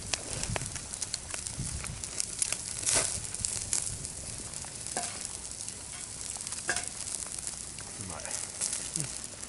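Food sizzling on a grill over a wood fire in a fire pit: a steady hiss with scattered pops and crackles.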